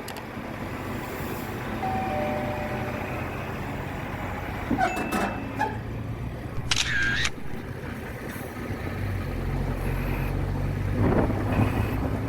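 Truck engine running steadily with a low hum. A few short, higher-pitched sounds come over it now and then.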